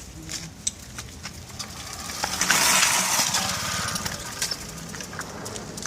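Small two-stroke moped engine, a Puch E50, being turned over during a push-start and firing in a fast run of low pulses. A swell of hiss rises and falls about two to four seconds in.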